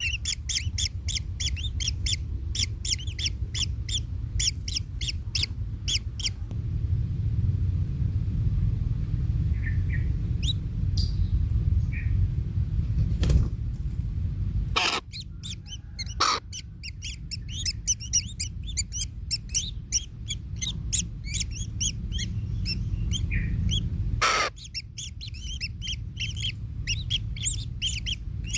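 Kingfisher nestlings giving rapid, high, repeated chirping calls in long runs. The calls break off for several seconds in the middle, with only a few single calls, then start again. A few sharp knocks and a steady low rumble sit underneath.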